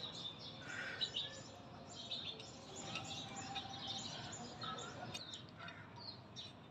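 Birds chirping faintly in the background: short, scattered high chirps over a steady low hiss.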